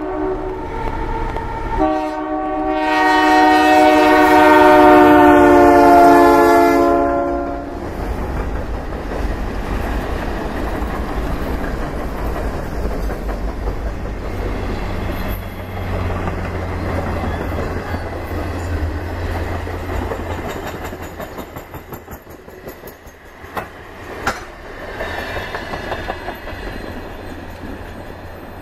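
Canadian Pacific freight train passing close by. The diesel locomotive's horn sounds a short blast and then a long, loud blast of about five seconds. After it comes the locomotive's deep rumble and the clatter of freight cars rolling over the rails, with a few sharp clanks near the end as it eases off.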